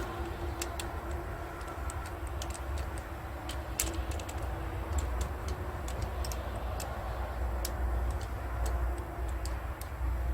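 Irregular light clicks and taps of parts and hand tools being handled on an engine's top end, over a steady low rumble.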